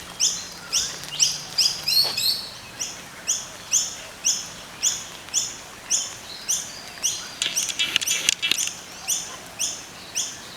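A bird calling over and over in short high chirps, about two a second, with a brief flurry of quicker chirps a little past the middle.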